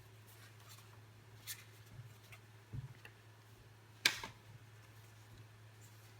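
Quiet room tone with a steady low hum and a few scattered clicks and taps, the sharpest about four seconds in.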